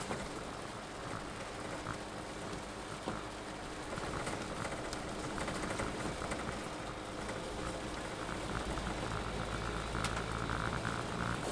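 Rain pattering on a moving vehicle, with a steady low hum of engine and road noise underneath; it gets a little louder about four seconds in.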